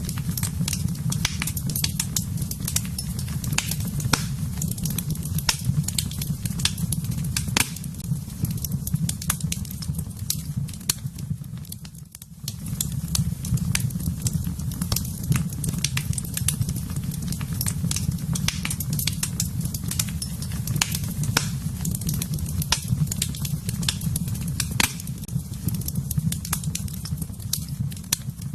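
Wood fire burning in a fireplace: frequent sharp crackles and pops over a steady low rush of flame, with a brief drop in level about twelve seconds in.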